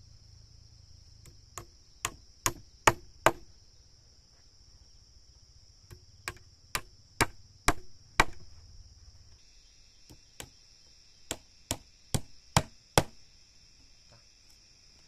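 A hand tool striking wood in three quick runs of about six blows each, roughly two or three blows a second, with short pauses between runs. A steady high insect buzz runs underneath.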